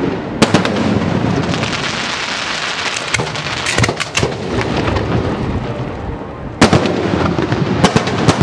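Fireworks firing and bursting overhead: a continuous crackling hiss with sharp, loud bangs, one about half a second in, several around the middle and another strong one about two seconds before the end.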